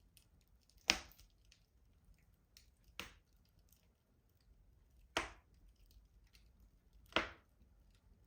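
Wood fire burning in a rustic stove: four sharp crackling pops about two seconds apart, with faint small crackles between them.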